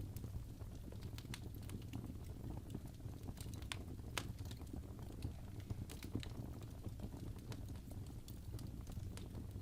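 Wood fire burning in a fireplace: irregular crackles and pops over a low, steady rumble of the flames, with a couple of sharper pops about four seconds in.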